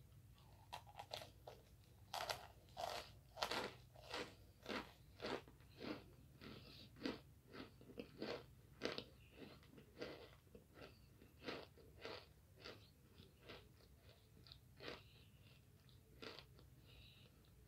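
Oven-baked starch chunks being bitten and chewed: a run of crisp crunches, about two a second, that thins out near the end.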